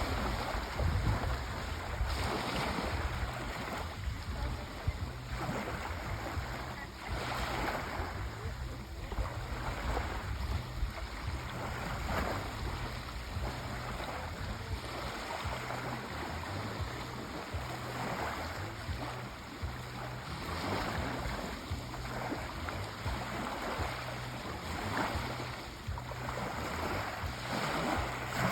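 Sea waves breaking and washing on a shore: a continuous rush of surf that swells every few seconds as waves break.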